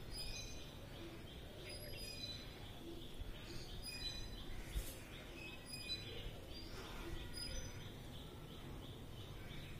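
Outdoor ambience: small birds chirping off and on, short high chirps every second or two, over steady low background noise.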